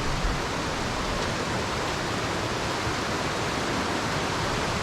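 Rushing water: a river and waterfall giving a steady, even roar of noise.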